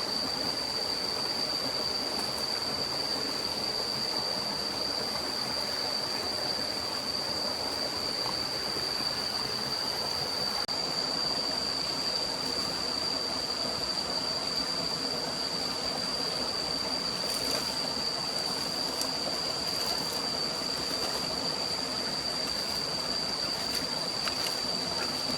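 Steady rushing of a forest stream, with a constant high-pitched tone held above it.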